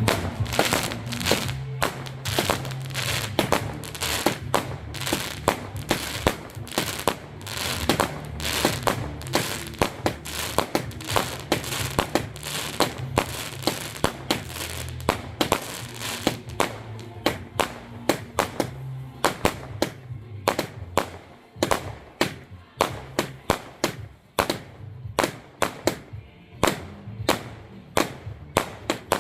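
Fireworks going off in a rapid barrage of bangs and crackles. The bangs thin out to separate reports, about two or three a second, in the last third.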